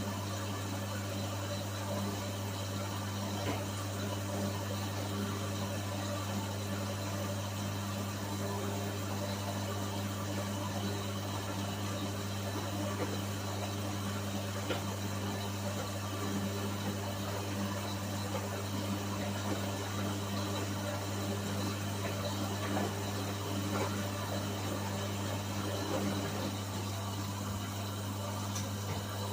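Whirlpool washing machine running, a steady motor hum with no change through the cycle phase heard here.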